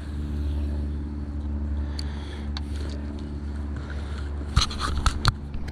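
A steady low motor hum, with a few sharp clicks, several of them close together near the end.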